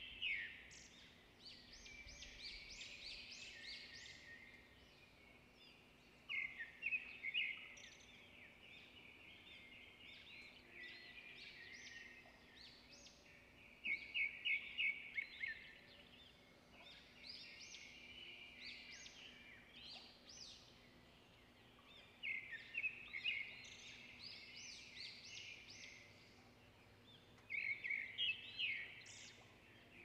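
Songbirds singing: loud bursts of rapid chirps come every six to eight seconds, with softer twittering in between.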